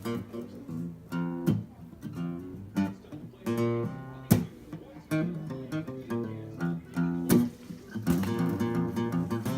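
Guitar music with picked and strummed notes.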